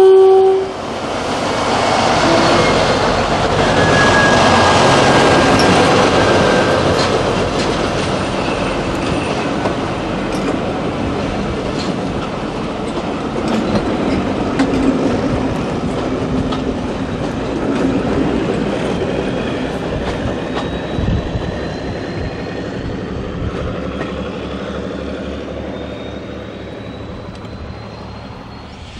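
A train passing on the line: a heavy rumble with clattering wheels, loudest a few seconds in and then slowly fading. Thin wheel squeals come in briefly at times.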